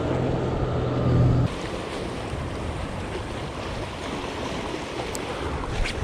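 Sea surf washing against a rocky shore, a steady rushing noise. Wind buffets the microphone with a low rumble for the first second and a half, then stops abruptly. Two faint clicks come near the end.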